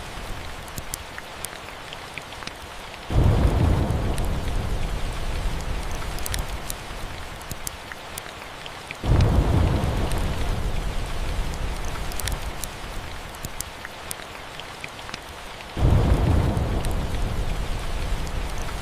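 Steady rain with three rolls of thunder, each starting suddenly about three, nine and sixteen seconds in and fading over several seconds. Scattered sharp crackles of a wood fire run through it.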